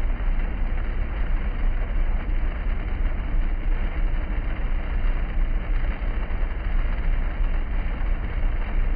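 Hail falling in a steady downpour, a dense, even noise with a heavy low rumble.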